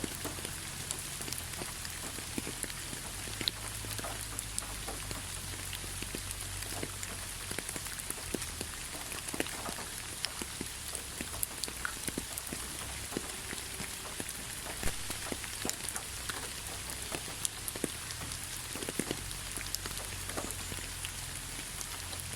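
Steady rainfall: a constant hiss of rain with many separate drops ticking and pattering on surfaces close by.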